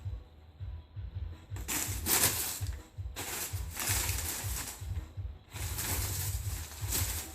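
Paper rustling and crinkling as kittens scramble through a pile of it, in three long bursts from a couple of seconds in, over a low, uneven thumping.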